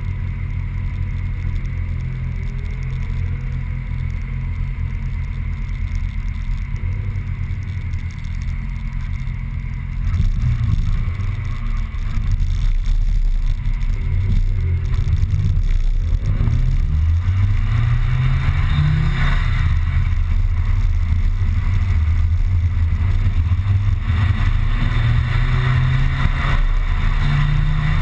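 Car engine heard from inside the cabin, running steadily at low revs in traffic, then getting louder about ten seconds in as the car pulls away. In the second half the revs rise and fall several times as it accelerates through the gears.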